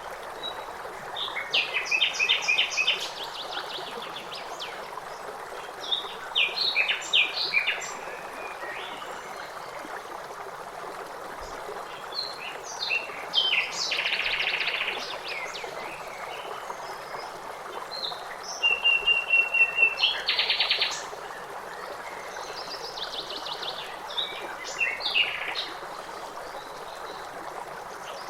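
Songbirds singing in short bursts of chirps and trills over the steady rush of a stream.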